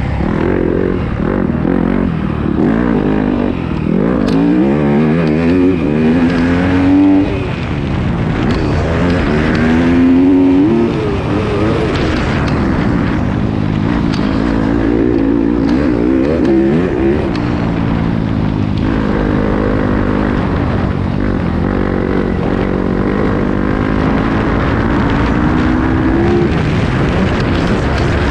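Yamaha YZ250F motocross bike's single-cylinder four-stroke engine running under hard throttle, its pitch climbing in several long rises and dropping back at each gear change or throttle-off.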